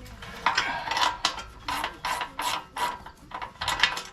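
Hand ratchet wrench clicking in a run of short strokes, about three a second, as a stubborn bolt is worked loose.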